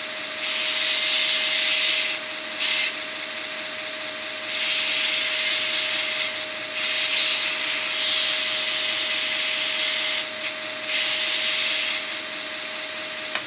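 Origin Blade Maker belt sander running with a steady hum while the edges of a metal piece are pressed to the belt in several passes, each bringing a harsh grinding hiss. The motor is switched off right at the end and the belt runs down.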